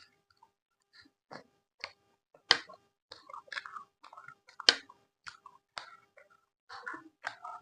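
Close-miked chewing and wet mouth sounds of a person eating, irregular smacks and clicks, with two louder sharp bites about two seconds apart.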